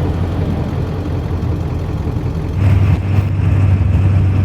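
1996 Ford F350's 7.3 Powerstroke turbo-diesel V8 running steadily as the truck drives, with a low drone and tyre and road noise that get a little louder about two-thirds of the way through.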